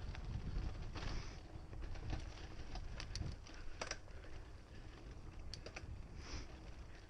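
A mountain bike being ridden on a dirt trail: wind rumbling on the mounted camera's microphone and tyres on dirt, with scattered sharp clicks and rattles from the bike over bumps.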